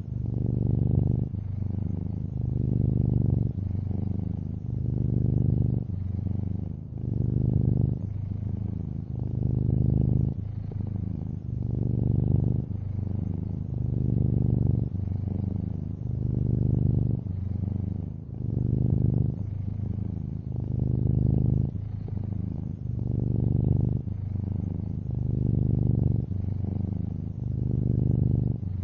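A long-haired orange tabby cat purring close up: a low, steady buzz that swells and eases with each breath, about every two seconds or so.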